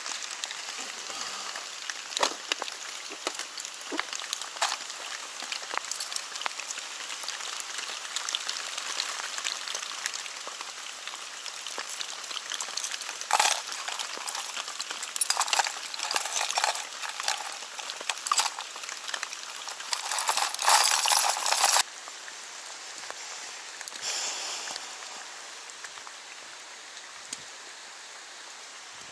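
Steady rain falling, with clicks and rustling as tackle and a rain jacket are handled close by; the handling is busiest and loudest for several seconds around the middle, then only the rain hiss is left.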